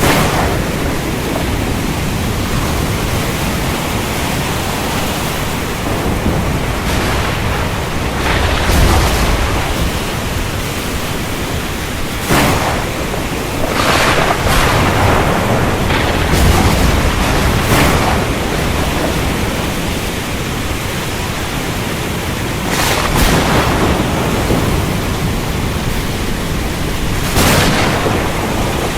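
Steady heavy rain with thunder: several sharp cracks and low rolling rumbles come over the rain hiss, the loudest near the middle.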